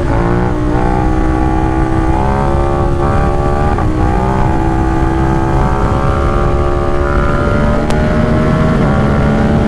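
Ducati Supersport 950 S L-twin engine under way through an aftermarket exhaust, held at a steady load with its pitch slowly rising. There is a short break about four seconds in, as at a gear change.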